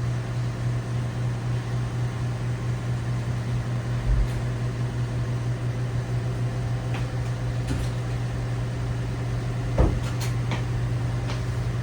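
LG WT7600HVA top-load washing machine running with a steady low hum, with a light knock about four seconds in, a sharper one near ten seconds, and a few faint clicks.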